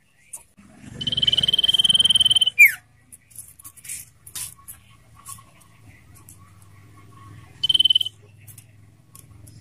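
Common iora singing. A long, steady, trilled whistle ends in a quick falling slur, then come scattered short chips and a second, shorter trill near the end.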